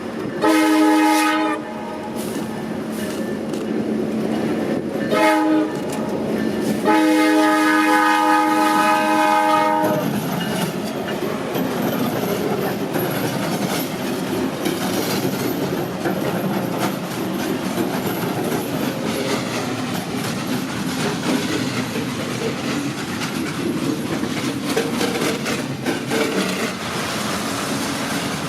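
Alaska Railroad diesel locomotive horn sounding three blasts: a short one about a second in, a brief one around five seconds, and a longer one of about three seconds. The train then runs past with a steady rumble and wheel clatter on the rails.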